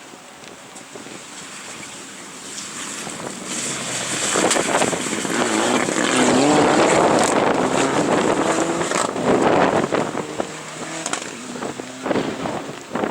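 Rally car approaching under hard acceleration, its engine getting steadily louder to a peak a little past halfway, then surging up and down in revs as it goes on past.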